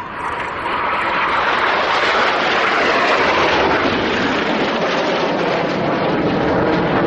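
BAE Systems Hawk T1 jets of the Red Arrows flying past low, their jet engine noise swelling about a second in and holding loud, the sound deepening in pitch as they go by.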